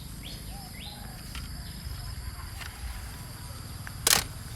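Outdoor ambience with a few faint bird chirps in the first second and a thin steady high tone that stops about two seconds in. A single sharp knock comes about four seconds in.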